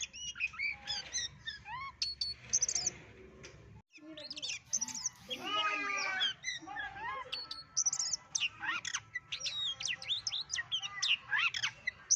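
Oriental magpie-robin (kacer) singing a long, varied song of quick sweeping whistles, slurred notes and trills, broken by a short pause about four seconds in.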